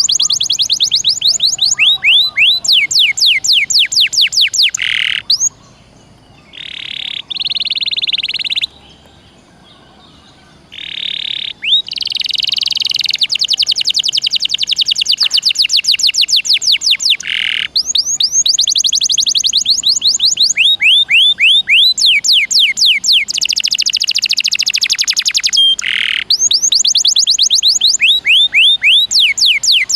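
Domestic canary singing a long, loud song. Fast trills of quick falling whistled notes alternate with buzzy, rattling rolls, with a couple of brief pauses about a third of the way in.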